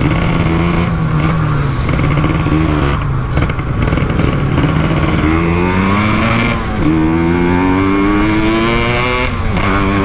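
Two-stroke Kawasaki Ninja 150 single-cylinder engine in a Yamaha RX-King being ridden hard, revving up through the gears with its pitch climbing and dropping at shifts about seven and nine and a half seconds in. It runs through an aftermarket 'standar belek' expansion-chamber exhaust, and the rider calls the engine very smooth.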